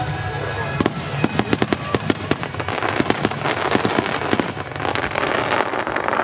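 Fireworks display: a rapid volley of shells bursting, many sharp bangs close together from about a second in, merging into a dense crackle over the following seconds, with music underneath.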